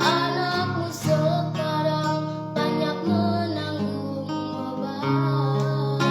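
Acoustic guitar strummed under a singing voice, in a song.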